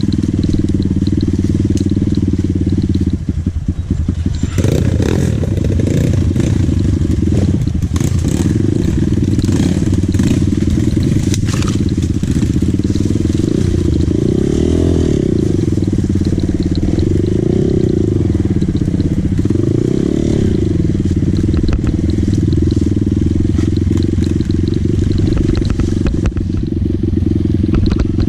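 Dirt bike engine running steadily while riding, its pitch wavering a little. From about four seconds in, a stretch of crackling and clattering noise rides over it for several seconds.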